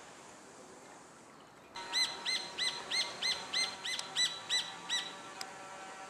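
A bird calling a series of about ten clear, arched notes, about three a second, starting nearly two seconds in and stopping about a second before the end.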